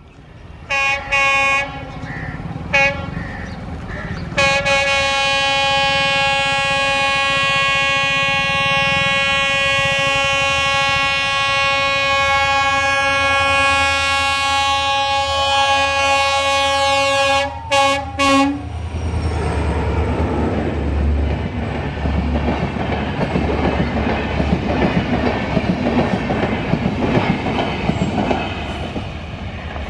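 Horn of a WDP4D diesel locomotive: two short blasts, one long blast held for about thirteen seconds, then two quick short blasts. After that the locomotive and its coaches pass close by, a loud rumble with wheels clattering over the rails.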